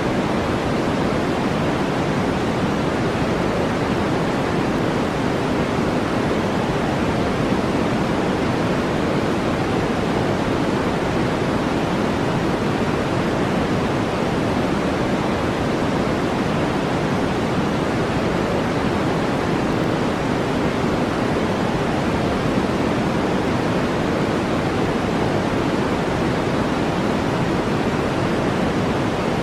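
Steady artificial noise of the relaxation and sleep kind, weighted toward the low and middle range and thinning out in the highs, unchanging throughout.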